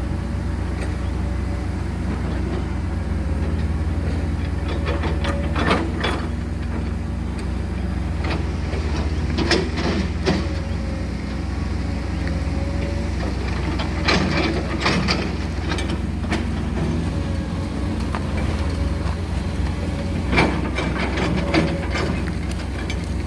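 Excavators working a hillside: diesel engines running with a steady low rumble and a faint wavering whine, with scattered knocks and clanks every few seconds.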